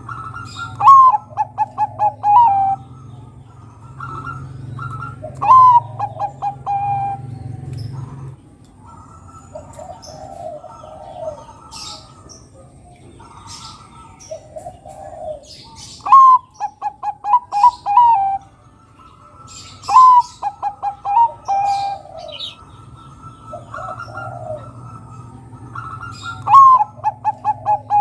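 Zebra dove (perkutut) of the Bangkok song type cooing, repeating the same phrase five times. Each phrase is a rising first note, a quick run of short staccato coos and a longer final note. Softer, lower coos come in between, and small birds chirp faintly.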